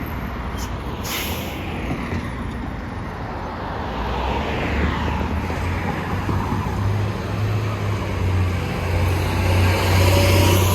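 Transit vehicle with a short hiss of air about a second in, then a low steady hum that grows louder toward the end as the vehicle draws near or pulls away.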